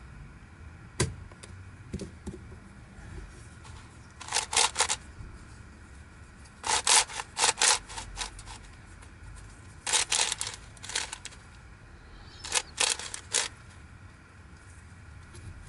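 Plastic twisty puzzle (Yileng Fisher Wheel of Time) being turned by hand: a few single clicks, then four short bursts of rapid plastic clicking a couple of seconds apart as the layers are rotated.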